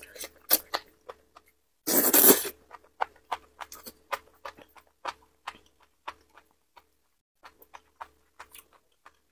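Close-miked mouth sounds of eating sauced enoki mushrooms: a loud slurp about two seconds in, then wet chewing with many small clicks and smacks.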